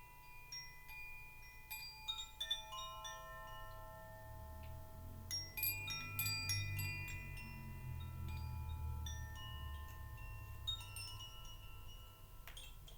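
Wind chimes ringing: many light metallic strikes at different pitches, each tone ringing on for a few seconds. A low hum swells in the middle and fades.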